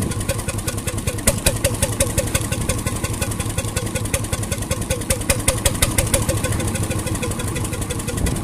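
1921 RSM 3½ HP hot-bulb marine engine running steadily, with an even, rapid beat of sharp knocks over a low hum.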